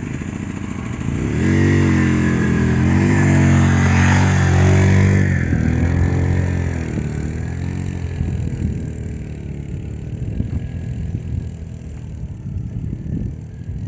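A motor vehicle's engine rises in level about a second and a half in, its note wavering up and down for several seconds as it revs, then fades to a rougher, lower rumble.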